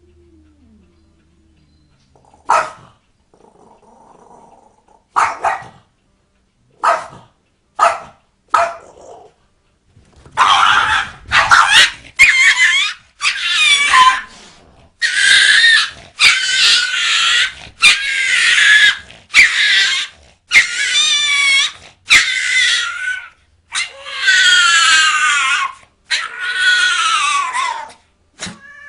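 A dog barks in short, sharp single barks. Then comes a run of about a dozen loud, high-pitched wavering cries, each about a second long, in quick succession.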